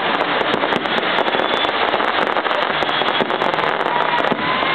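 Fireworks display: a dense, unbroken crackle of many small bursts. A few faint whistles come through near the end.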